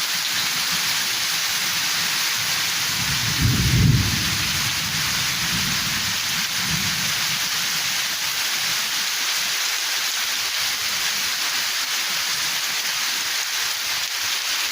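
Heavy rain pouring steadily, with a rumble of thunder about three to four seconds in and a fainter rumble a few seconds later.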